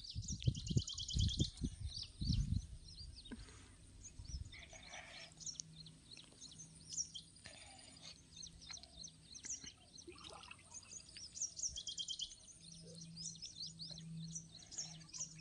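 Many small birds chirping and singing in quick repeated notes. A few low thumps come in the first two seconds.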